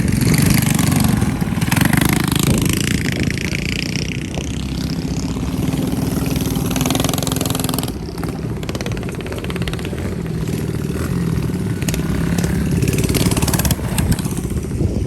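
Mini bike engines running close by, revving up and down. A steady engine note holds for a few seconds in the middle.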